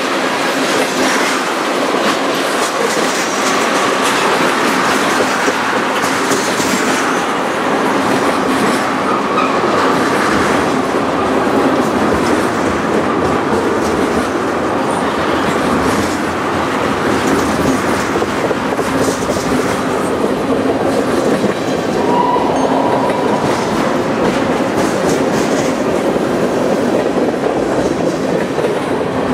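Freight train tank cars rolling past: steel wheels running on the rails with a steady clickety-clack over the rail joints. A brief faint wheel squeal comes about 22 seconds in.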